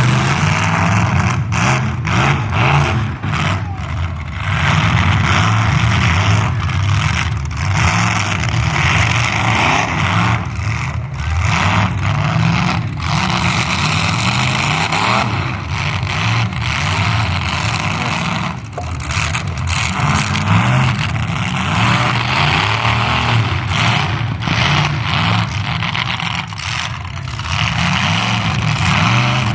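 Full-size demolition derby cars running their engines hard, pitch rising and falling as they rev and back off, with repeated sharp crashes of cars ramming each other.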